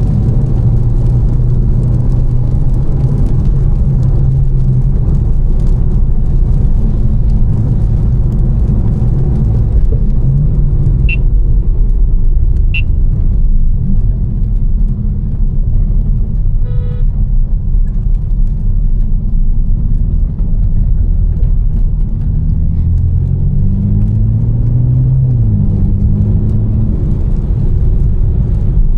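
Tuned BMW M4's twin-turbo inline-six droning at a steady cruise over continuous road noise. The revs climb and then drop back about 23 to 25 seconds in. Two short high chirps come near the middle, and a brief electronic beep follows a few seconds later.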